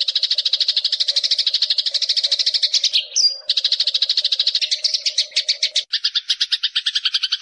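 Eurasian tree sparrow chirping in a fast, unbroken run of short chirps, with a brief high whistle about three seconds in.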